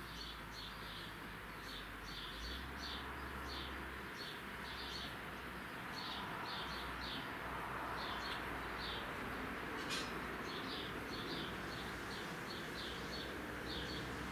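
A bird chirping over and over in quick groups of two to four high notes, over steady background noise. A single sharp click about ten seconds in.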